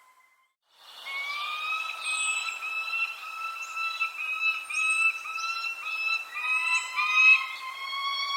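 Birds calling: a near-unbroken run of repeated, slightly rising whistled notes, with a second, lower caller joining about six seconds in and faint high chirps over them. The recording goes briefly silent near the start before the calls begin.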